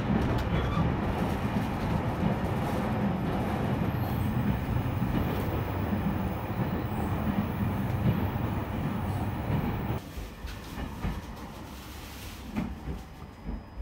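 Running noise inside an E721-series electric train as it climbs a grade: a steady, dense rumble. About ten seconds in it drops suddenly to a much quieter background with a few short knocks as the train stands at a station.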